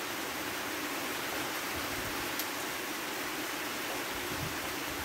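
Steady hiss of rain falling, with one light tick about two seconds in.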